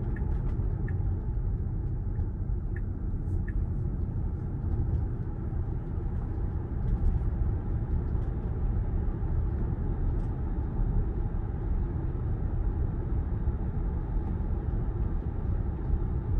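Steady low road and tyre rumble of a Tesla Model Y electric SUV driving, heard from inside the cabin, with no engine note. A few faint light ticks sound in the first few seconds.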